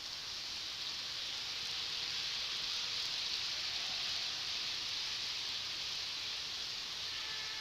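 Model shinkansen train running on its track, a steady hissing whir of wheels and motor that swells gently about halfway through as it passes and eases toward the end.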